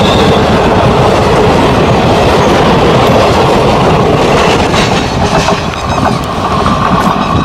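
Passenger train coaches rushing past at close range, their wheels clattering over the rail joints. About five seconds in the last coach goes by and the noise drops as the train moves away.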